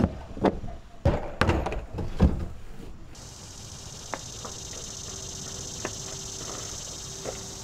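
Several hard knocks and thumps in the first three seconds, like things being moved or a door handled. A steady high hiss with a faint hum then takes over, with a few light ticks.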